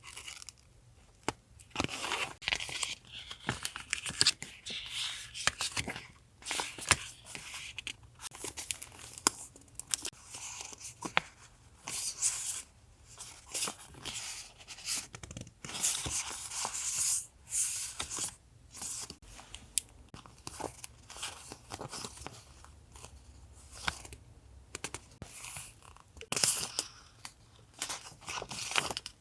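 Paper stickers and packaging handled close to the microphone: repeated tearing, crinkling and rustling, with sharp clicks in between.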